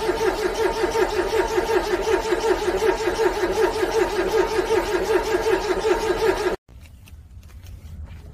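Car engine cranking on its starter in the cold without firing, an even, fast pulsing as each cylinder comes up on compression. The cranking stops abruptly about six and a half seconds in.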